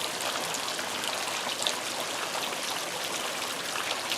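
Steady heavy rain: an even hiss of falling water dotted with the small ticks of individual drops.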